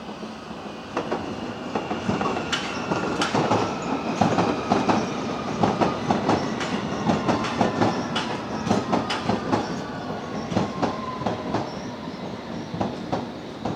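A train running through on the rails, its wheels clattering over rail joints in rapid, irregular clicks. A thin whine slowly falls in pitch throughout. The sound swells about a second in.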